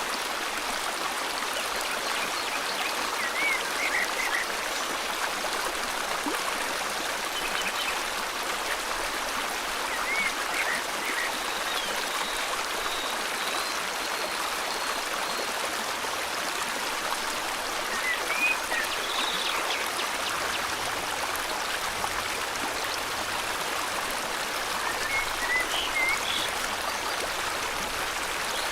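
River water flowing in a steady rush. Short bird chirps sound over it four times, a few seconds apart.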